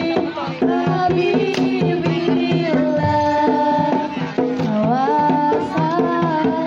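Traditional Bantengan music: hand drums keeping a busy beat under repeated pitched notes, with a melody line that bends and glides in pitch over the top.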